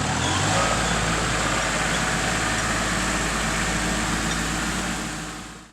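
Loader tractor's engine running steadily, cutting off abruptly at the end.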